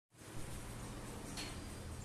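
One short, high chirp from a Eurasian tree sparrow chick about two-thirds of the way in, over a steady low hum.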